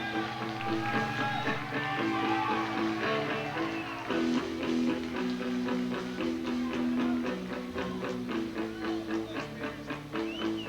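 Live rock band playing an instrumental passage: a lead electric guitar line with bent notes over bass and a steady drum beat.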